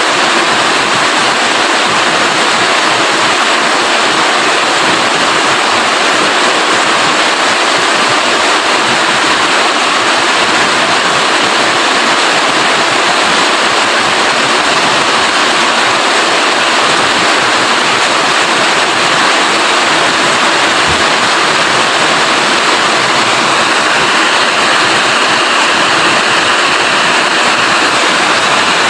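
Heavy rain falling in a steady, dense roar of water.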